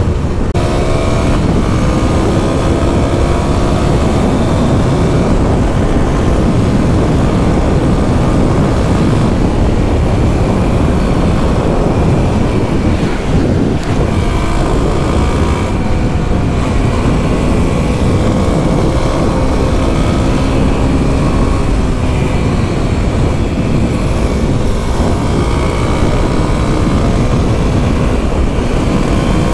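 Single-cylinder engine of a Kawasaki KLX dual-sport motorcycle running at road speed through a series of bends, its pitch rising and falling with the throttle, under heavy wind noise on the microphone.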